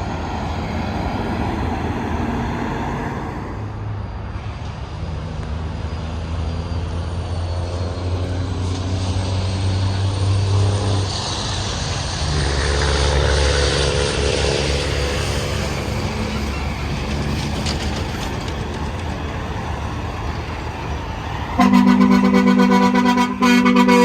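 Tractor-trailers passing on an interstate highway, with engine drone and tyre noise swelling and fading, then near the end a loud truck air horn sounded in two long blasts.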